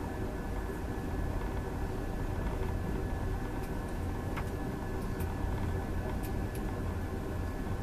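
Passenger train running at speed, heard from inside the carriage: a steady low rumble from the wheels and running gear, with a faint steady whine above it and a few light ticks.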